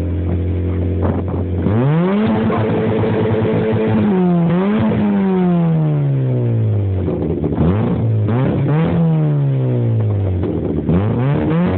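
Ford Fiesta Mk6 engine and exhaust, loud, revved up from idle and held for several seconds, then let fall slowly. A couple of quick blips follow before it settles back to idle, and it revs up again near the end.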